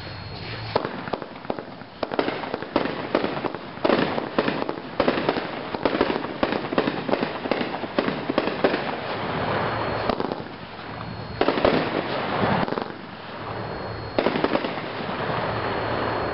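Winda Pyro Heaven consumer fireworks cake firing a rapid series of shots and bursting pops, starting about a second in, with several dense clusters of bangs.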